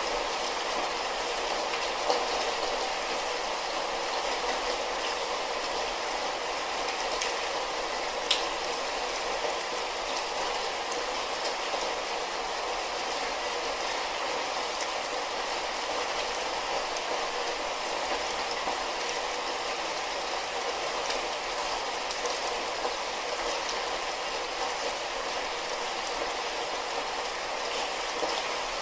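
Steady light rain, an even hiss with scattered drops ticking and a few sharper drips.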